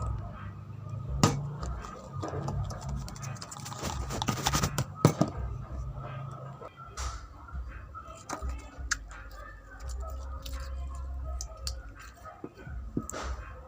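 Slime being played with by hand: scattered sticky clicks and small pops, with a dense run of them about four to five seconds in.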